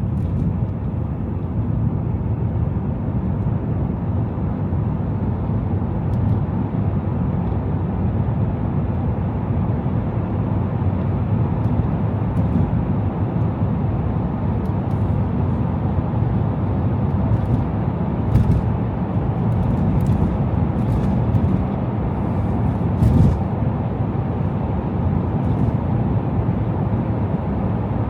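A car driving through city traffic: steady low engine and tyre rumble, with a few short clicks in the second half.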